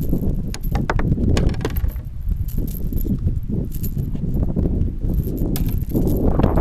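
Wind buffeting the microphone in a steady low rumble, with scattered sharp clicks and light rattles of gear being handled.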